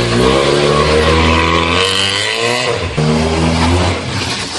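Car engine accelerating as the car pulls away, its pitch climbing steadily, dropping once about three seconds in, then climbing again.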